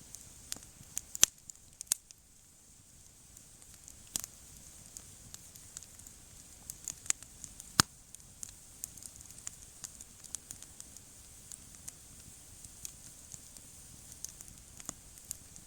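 Wood fire crackling, with irregular sharp pops and snaps; the loudest snaps come about a second in and near the middle.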